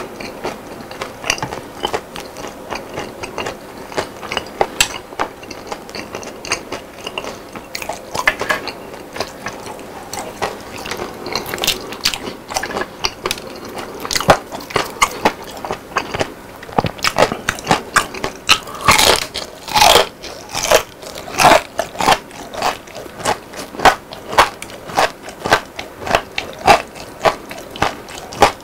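Close-miked chewing and biting of crispy fried food, with sharp crunches. The crunching grows louder and settles into a steady rhythm of about two crunches a second in the second half.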